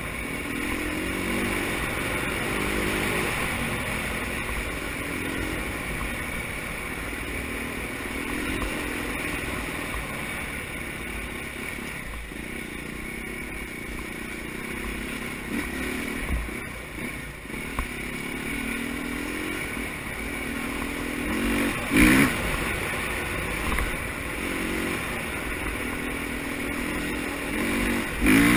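Motocross bikes' engines revving up and down, pitch rising and falling again and again, with two short loud bursts, one about twenty-two seconds in and one at the end.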